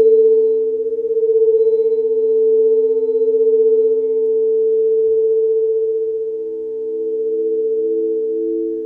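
Singing bowls sounding in a sustained, overlapping drone of several steady pure tones. Past the middle, one of the lower tones begins to throb in a slow, even wobble.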